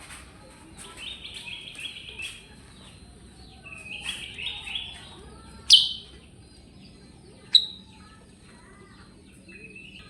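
A kutilang sutra songbird singing its rolling 'ngerol' song: phrases of rapid, repeated chirping notes, with two sharp, loud calls near the middle.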